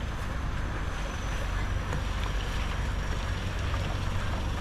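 Steady wind noise rumbling on the microphone, with an even hiss over it.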